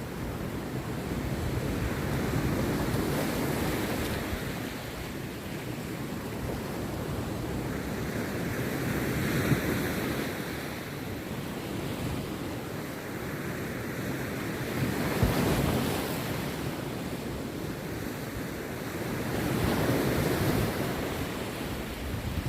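Rough sea surf breaking on a beach: a steady roar of water that swells up with each breaker, about every five or six seconds.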